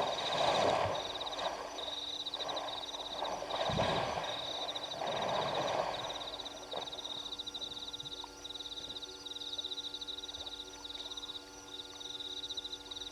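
Night chorus of frogs and insects at a waterhole: a steady high pulsing trill throughout, with a few louder bursts of calling in the first six seconds.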